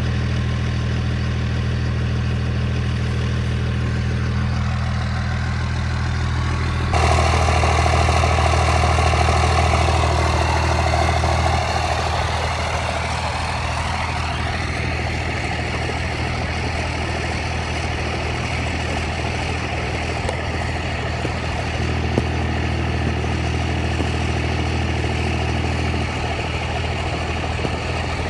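1999 Dodge Cummins 24-valve turbo diesel straight-six idling steadily. The sound changes abruptly about seven seconds in, getting louder and brighter, and settles back a few seconds later.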